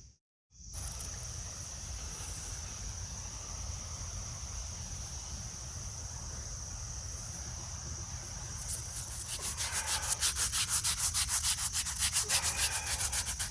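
A brush scrubbing a gravestone coated with masonry cleaner, in quick rhythmic back-and-forth strokes that start about nine seconds in. Insects keep up a steady high-pitched drone throughout.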